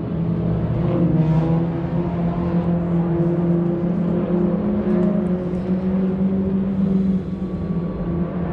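A car engine running at a steady speed: an even, low drone that holds its pitch, dipping slightly in level about seven seconds in.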